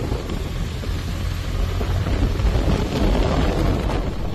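Wind rushing over the microphone of a phone held by a pillion passenger on a moving motorcycle, mixed with road and engine noise. It is a steady, heavy rumble with a hiss above it.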